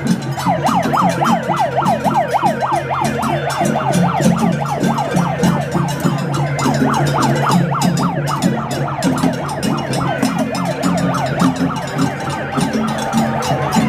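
Emergency vehicle siren in a fast yelp, its pitch sweeping up and down about three times a second without a break.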